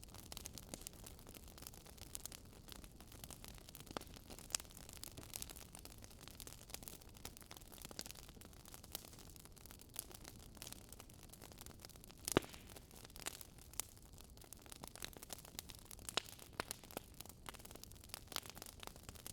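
Wood fire crackling, with irregular sharp pops over a faint steady hiss; one louder pop about twelve seconds in.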